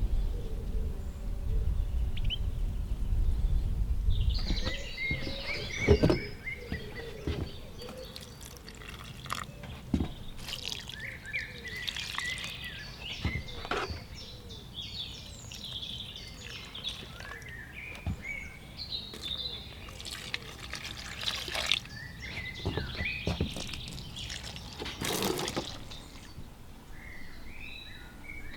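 Water splashing and dripping in irregular bursts, with small birds chirping and singing throughout. A low rumble runs for the first few seconds.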